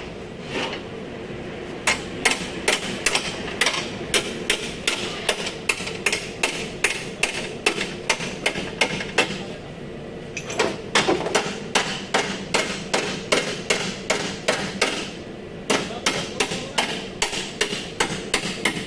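Hammer blows on sheet metal, about two to three sharp strikes a second, in three runs with short pauses. It is panel beating to straighten accident-damaged bodywork on a Toyota Land Cruiser's front end.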